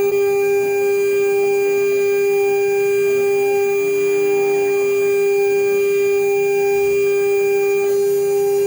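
CNC router spindle running with a steady whine while engraving a seal plate in aluminum.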